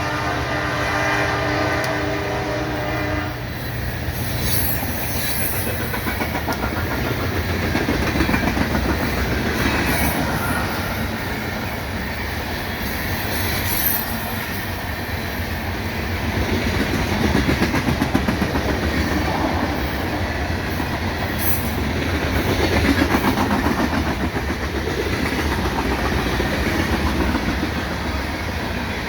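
A BNSF coal train led by SD70ACe locomotives passes: the locomotive horn sounds a chord that cuts off about three seconds in. It is followed by the steady rumble and clickety-clack of the coal cars rolling by, with a few brief high squeals from the wheels.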